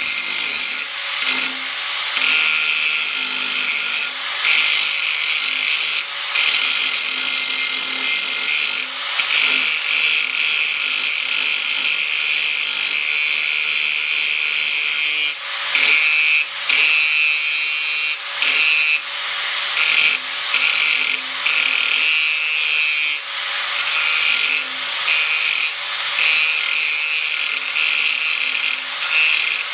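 Power tool working steel plate: a steady, high-pitched grinding noise with short breaks every second or two.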